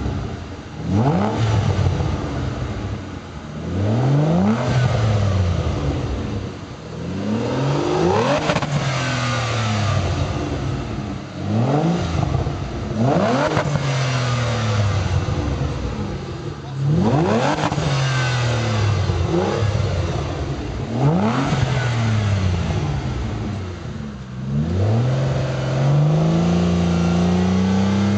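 Aston Martin DB9's 5.9-litre V12 through a CKS sport exhaust in place of the standard rear silencer, revved repeatedly: the engine note climbs quickly and falls back about every four seconds, then holds at higher revs near the end. The note is deeper than stock.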